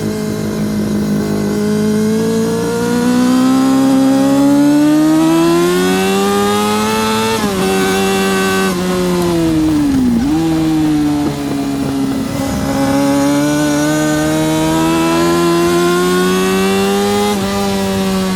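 Yamaha R6 RJ03's 600cc inline-four engine heard from the bike under way. The engine pitch rises slowly under acceleration for about seven seconds, then drops as the throttle closes, with a quick dip and blip around ten seconds in. It climbs again under power and falls near the end.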